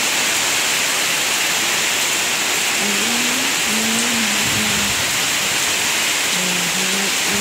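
Heavy rain falling steadily, a dense, even hiss of water. A faint tune comes in about three seconds in.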